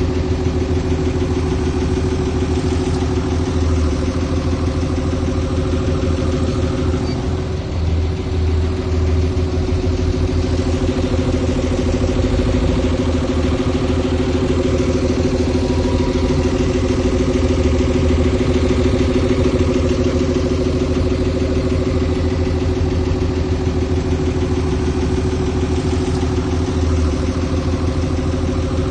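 Heavy diesel engine of earth-moving machinery running steadily at an even pitch, with a deep rumble underneath.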